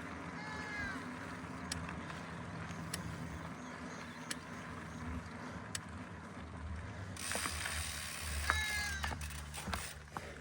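Mountain bike riding over a dirt trail: tyres rumbling and scattered freewheel ticks, with two short falling squeals near the start and about eight seconds in. The hiss grows louder from about seven seconds in.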